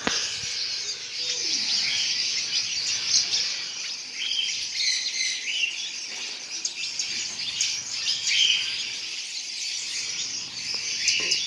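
A roomful of caged pet birds chirping and tweeting all at once: a dense, continuous high-pitched chatter of many overlapping calls.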